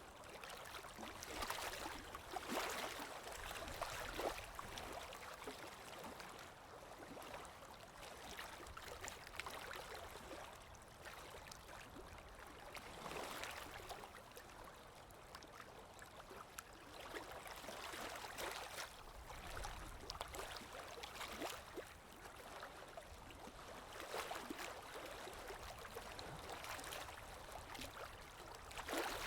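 Water lapping with wind: a soft wash of small splashes that swells and eases every few seconds.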